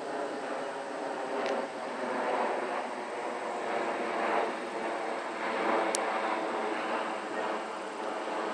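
Airbus A340-600 jet airliner with four Rolls-Royce Trent 500 turbofans, a steady engine noise that swells and eases. There is a brief sharp click about six seconds in.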